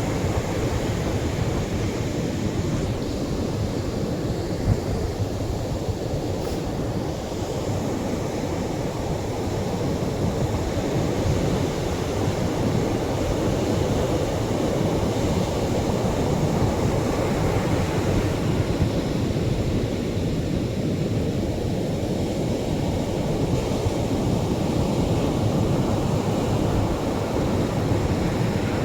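Atlantic surf washing gently onto the shore: a steady rush of breaking waves that slowly swells and eases every several seconds.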